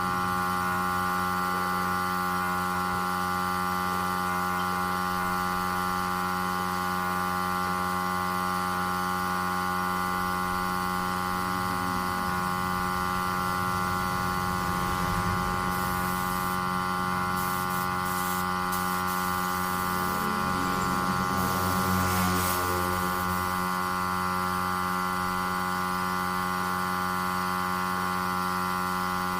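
Steady electrical mains hum with many overtones, unchanging throughout. Faint brief scraping or handling noises come through around the middle.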